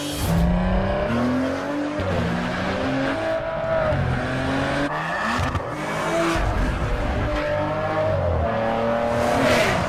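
Maserati Ghibli engine accelerating hard: the revs climb and fall back again and again as it shifts up through the gears. The sound cuts away near the end.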